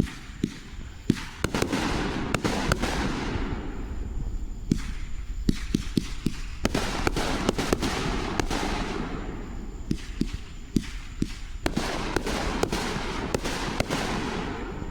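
Fireworks going off: rapid sharp pops and cracks in three dense crackling waves of a few seconds each, with scattered single pops between them.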